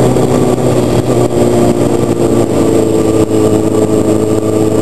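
Sportbike engine pulling under throttle up a hill, a steady engine note under a rushing noise.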